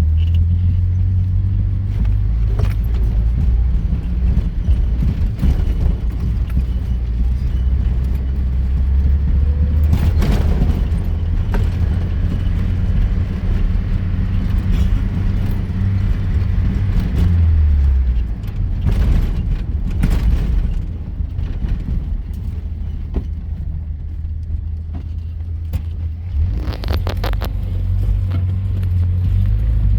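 Vehicle driving over rough off-road ground: a steady low rumble of engine and tyres, with scattered knocks and rattles as it jolts along. The rumble eases a little about halfway through.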